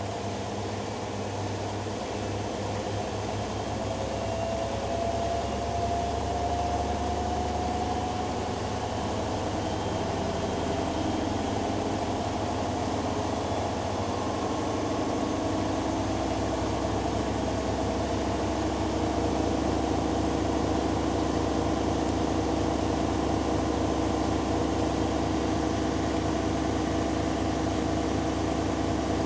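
Hoover Dynamic Next washing machine on its spin cycle: the drum motor runs with a steady hum and a whine that rises slowly in pitch as the drum picks up speed, growing gradually louder.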